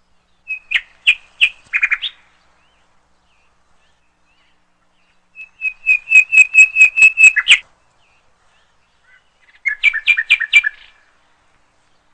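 A bird singing: three phrases of quick repeated chirps, each lasting one to two seconds, with silence between them.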